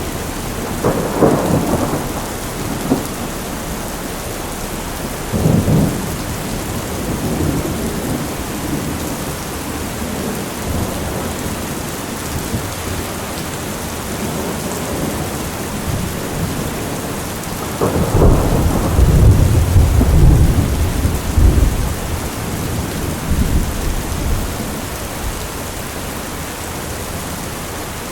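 Heavy rain falling steadily in a thunderstorm, with thunder: short claps about a second in and around five seconds in, and a long, loud rolling rumble from about eighteen seconds in that dies away over several seconds.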